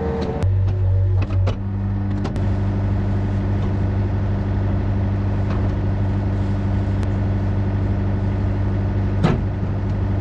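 Yanmar VIO50 mini excavator's diesel engine running steadily under work, with a few short metallic knocks from the machine.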